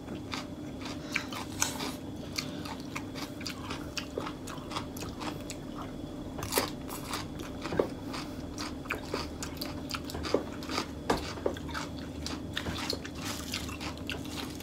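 Close-miked chewing of a mouthful of fresh lettuce, herbs and beef rolled in betel leaves, with many irregular crunching clicks. A steady low hum runs underneath.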